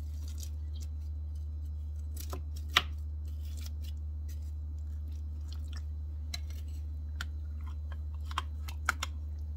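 Scattered light clicks and scrapes of a serving utensil against a baking dish as food is dished out, with one sharp knock a little under three seconds in and a few more near the end, over a steady low hum.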